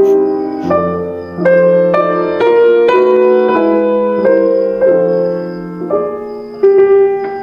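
Slow piano music: single notes and chords struck about one to two a second, each ringing and fading away.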